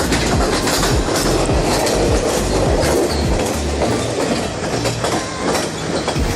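Train running along the track: a steady rumble and rush of noise broken by frequent short clicks and clatters of the wheels.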